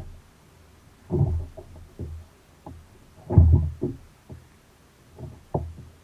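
A series of irregular dull knocks and thumps on a kayak, the strongest about halfway through.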